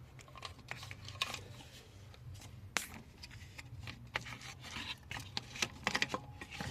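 Irregular clicks, taps and rubbing, the sound of hands handling tools and parts, over a low steady hum.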